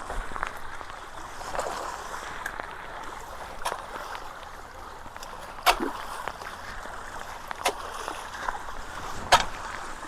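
Running, splashing water at a flooded culvert, broken by several sharp knocks; the two loudest come about halfway through and near the end.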